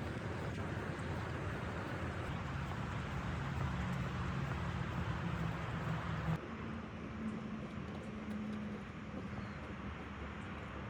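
Steady kitchen background noise: a low hum under a rushing hiss, which shifts abruptly about six seconds in.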